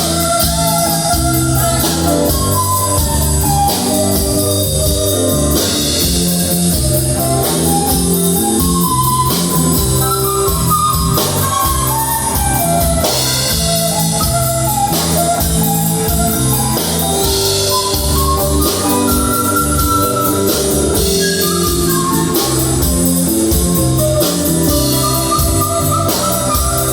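Rock band playing an instrumental break: electric guitar leads with melodic runs over bass and a steady drum-kit beat.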